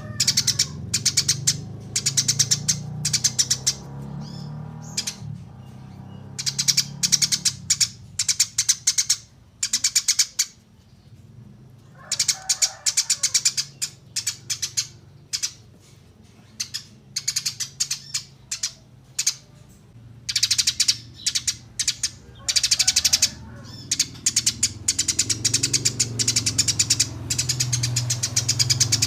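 Small songbird singing: repeated bursts of rapid, high-pitched trills and chip series, with a couple of harsher, lower calls mixed in. A low hum sits underneath in places.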